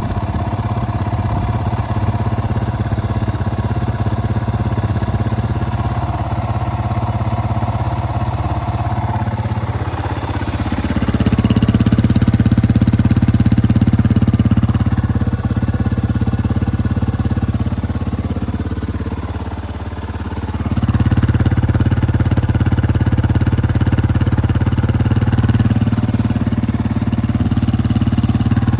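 Yamaha Serow 225's air-cooled single-cylinder four-stroke engine running. It idles at first, then the revs rise about a third of the way in and are held higher. Near two-thirds of the way they dip briefly, then pick up again.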